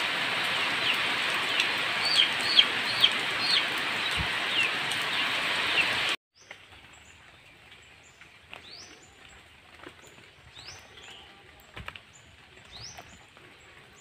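Heavy rain falling steadily, with short bird chirps over it. It cuts off abruptly about six seconds in to a much quieter background where a bird repeats a short rising call every second or two.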